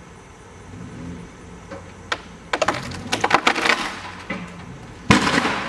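A dead tree's trunk cracking and splintering in a rapid run of snaps as it gives way, then one heavy crash about five seconds in as it comes down. A truck engine runs low underneath.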